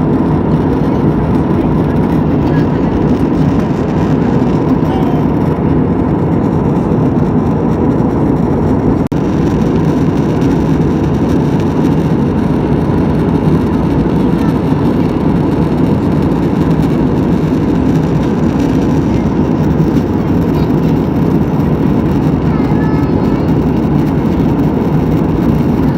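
Steady roar of a jet airliner's engines and rushing air heard inside the passenger cabin, with a steady hum under it. There is a momentary break about nine seconds in.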